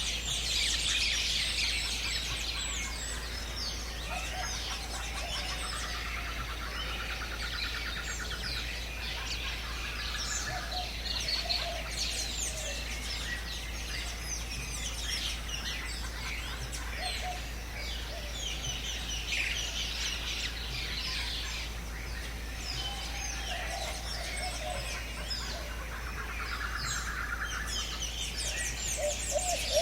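A chorus of many birds chirping and calling together. A fast, rattling trill comes twice, about a quarter of the way in and again near the end, with a few lower whistled notes in between.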